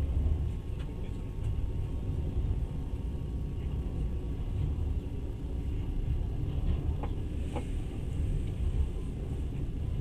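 Moving passenger train heard from inside the carriage: a steady low running rumble, with a couple of faint knocks about seven seconds in.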